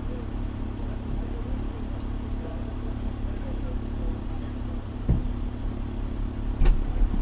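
Fire engine's diesel engine idling with a steady low rumble. There is a thump about five seconds in and a sharp click near the end.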